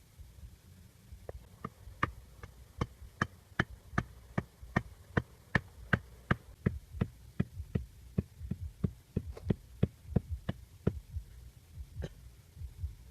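A steady run of sharp knocks, about two and a half a second, that goes on for roughly ten seconds and then stops, with one last knock a second later.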